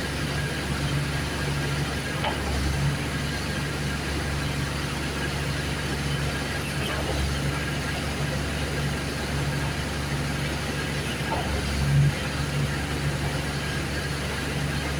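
Diesel engine of a concrete pump running steadily at a constant speed, with a few brief louder surges.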